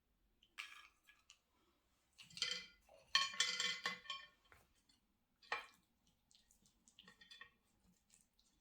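Dishes and kitchen utensils clinking and clattering as they are handled, in several separate bouts, the longest lasting about a second and a half about three seconds in.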